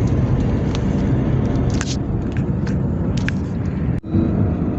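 Steady road and engine rumble inside a moving car's cabin, with a few light clicks. The sound drops out briefly near the end.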